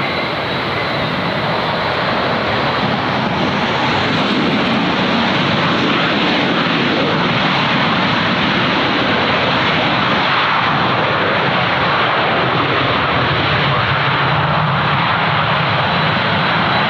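Airliner's jet engines running, a loud, steady rush of engine noise that swells slightly a few seconds in.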